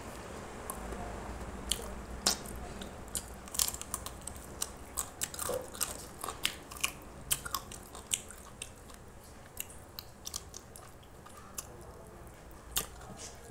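A person chewing and biting cooked chicken close to the microphone, with irregular wet mouth clicks and smacks, thickest in the first half and thinning out later.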